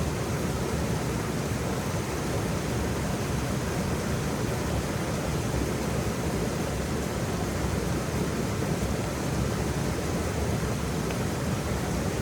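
Waterfall: a steady, unbroken rush of falling water, full and deep, without a change in the flow.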